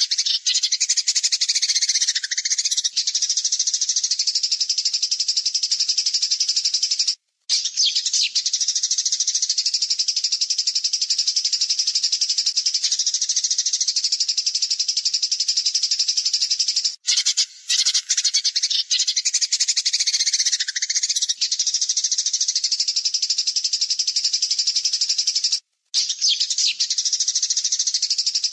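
Songbird's continuous, rapid, harsh high-pitched trilling song of the kind used as masteran training audio for cage birds, with brief silent breaks about seven seconds in and a few seconds before the end, where the recording appears to loop.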